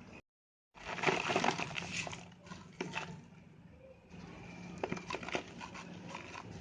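Compressed red sand shapes being crushed and crumbling: a dense, crunchy crackle of many small sharp cracks. It starts after a brief silence, is loudest for the next couple of seconds, then goes quieter with a few sharper cracks later.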